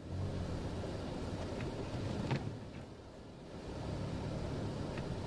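Vehicle engine and road noise heard from inside the cabin while driving: a steady low rumble that dips briefly in the middle, with a few light clicks.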